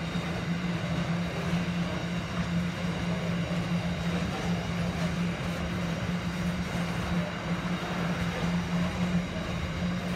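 Freight train hopper wagons rolling past: a steady rumble of steel wheels on the rails, with a constant low hum underneath.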